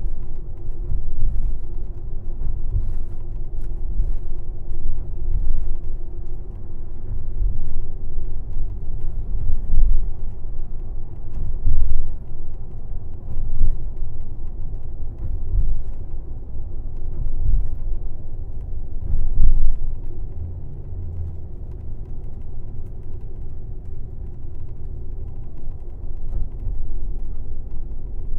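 Cabin noise inside a moving airport limousine bus: a steady low engine and road rumble that swells and dips, with a faint steady hum above it and an occasional light tick.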